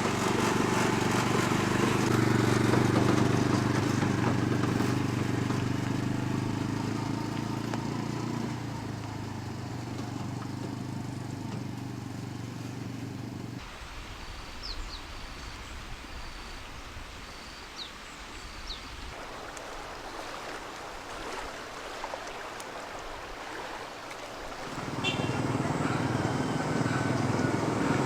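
A small engine runs steadily and cuts off suddenly about halfway through. A quieter stretch of outdoor ambience follows, with a few short bird chirps. Near the end an engine sound starts up again just as suddenly.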